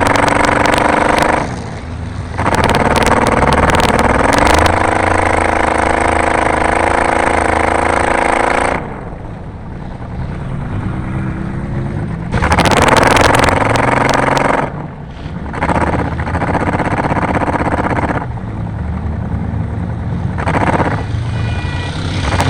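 Car engine pulling hard at high revs on a dirt race track, lifting off and picking up again: the pitch climbs a couple of seconds in, drops away near the middle and comes back loud later. Rattles and knocks run over it in two spells.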